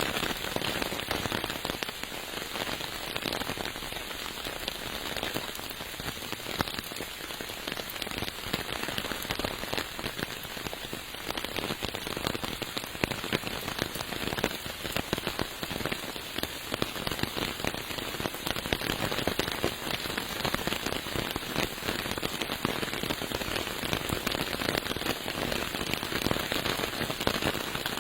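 Steady rain falling, a dense, even patter of many small drops hitting surfaces.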